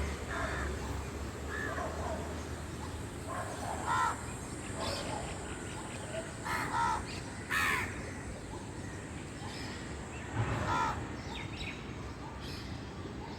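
Birds calling: a dozen or so short calls come at irregular intervals of about a second, the loudest a little past halfway.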